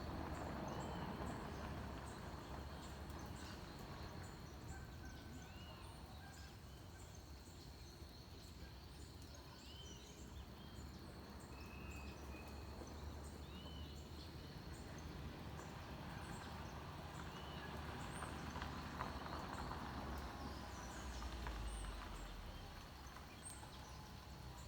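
Dawn chorus of forest birds: many short, high chirps and small arched whistles from several birds, scattered throughout. Under them run a steady thin high hum and a low rumble.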